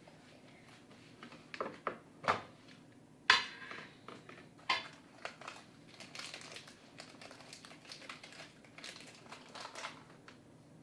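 Household handling noises in a small room: a few sharp clicks and knocks, the loudest about three seconds in, followed by light clatter and rustling of objects being moved about.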